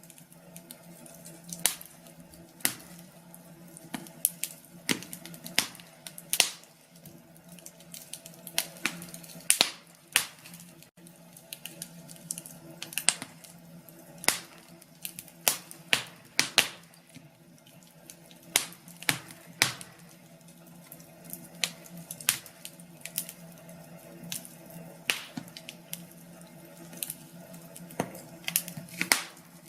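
Wood fire crackling in a fireplace: irregular sharp snaps and pops, sometimes several in quick succession, over a faint steady hum.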